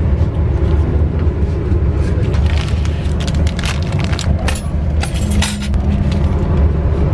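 Inside a running passenger train coach: a steady low rumble, with a run of sharp rattles and clicks through the middle.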